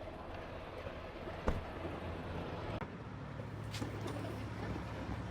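Semi truck's engine and road noise, a steady low drone heard inside the cab, with a sharp click about a second and a half in.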